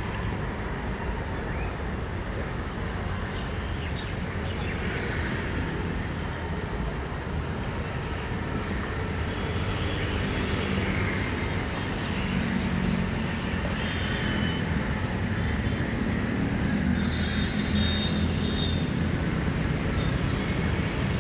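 Freight train of BCNA covered wagons rolling across a river bridge: a continuous low rumble that grows a little louder about halfway through.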